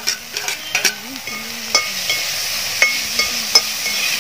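Onions and freshly added chopped tomatoes sizzling in oil in an aluminium pot, stirred with a wire-mesh skimmer that scrapes and clicks against the pot now and then.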